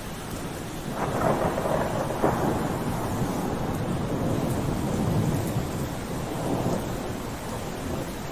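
Steady rain with a long roll of thunder that swells about a second in, rumbles on for several seconds and eases off near the end.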